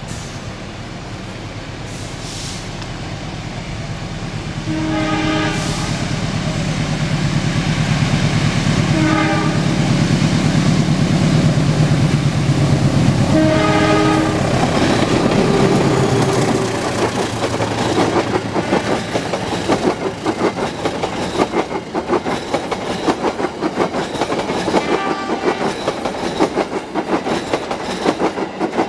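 Diesel locomotive approaching and sounding its horn three times, the engine growing louder as it nears. Then the passenger coaches pass close by with a fast, steady clickety-clack of wheels over rail joints.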